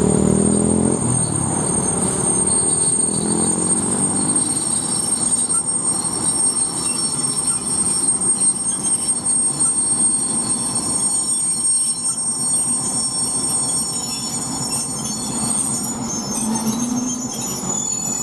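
ChME3T diesel shunting locomotive running, its engine note bending in pitch in the first few seconds, with a steady high-pitched whine above it.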